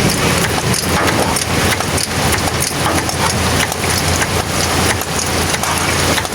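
Rain falling steadily, with scattered sharp taps throughout and a low steady hum underneath.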